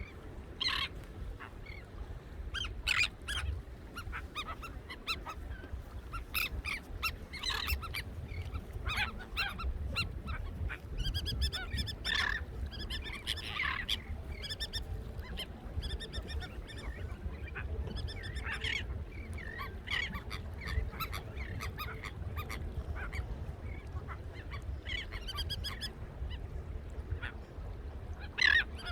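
A flock of beach birds giving many short, overlapping calls, thickest about halfway through, over a steady low rumble.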